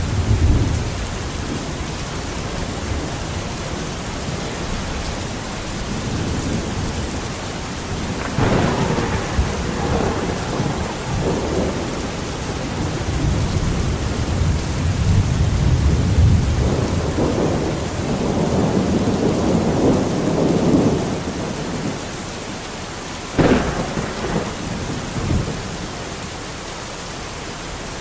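Thunderstorm: steady heavy rain with rolling thunder. Two sharp cracks of thunder come about a third of the way in and again near the end, between long low rumbles.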